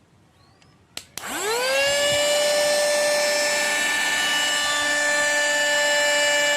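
Cordless mini handheld vacuum cleaner switched on with a click about a second in. Its motor spins up in a quickly rising whine, then runs steadily at a high pitch.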